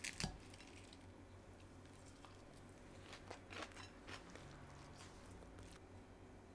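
Quiet room with a few light clicks and taps: a pair right at the start, a cluster about three to four seconds in, and a couple more shortly after five seconds.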